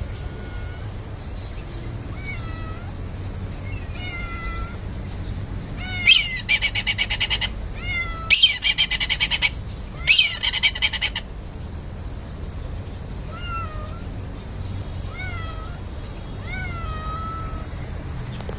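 A cat meowing repeatedly, short calls every second or two. In the middle come three loud bursts of fast rattling chatter.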